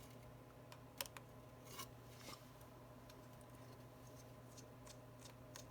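Near silence with a few faint, short clicks of a precision screwdriver working the tiny Y-head screws on an iPhone 11 Pro's battery plate.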